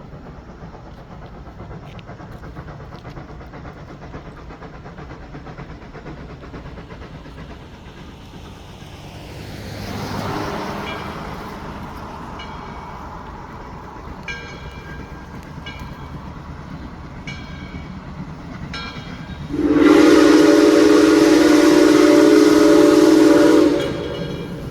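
A train rumbles steadily past. A bell rings about every second and a half, and near the end the train's whistle sounds one long blast of about four seconds, by far the loudest sound.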